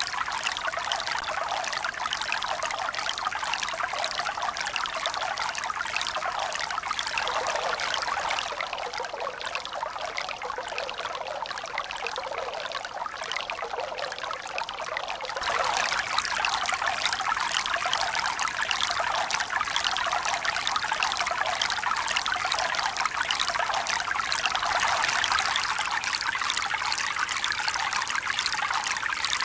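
Running water trickling and splashing steadily, turning louder and brighter about halfway through.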